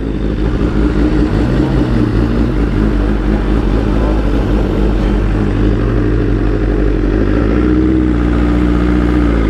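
Motorcycle engine running steadily while riding, under an even rush of wind noise, its pitch shifting slightly a couple of times.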